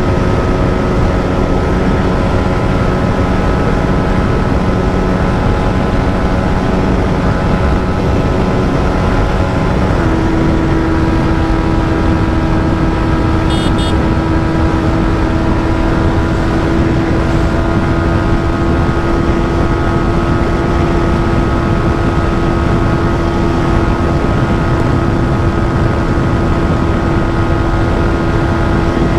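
Yamaha MT-15's 155 cc single-cylinder engine running hard at high revs at speed, under heavy wind rush on the microphone. The engine note steps once about ten seconds in, then holds steady.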